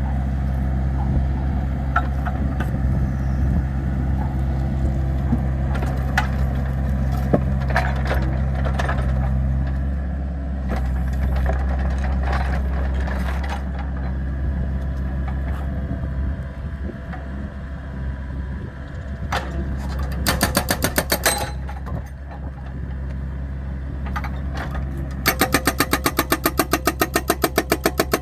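Excavator's diesel engine running steadily, with scattered sharp knocks. A fast rattling clatter comes in briefly about two-thirds of the way through and again near the end.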